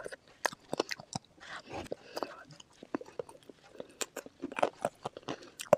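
Close-miked eating sounds: a person chewing and biting food, with irregular wet clicks and short crunches several times a second.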